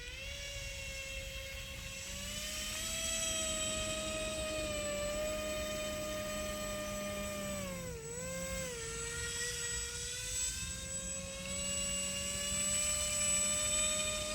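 RC airboat's motor and air propeller whining, the pitch rising and falling with the throttle; it drops sharply about eight seconds in, then climbs again near the end.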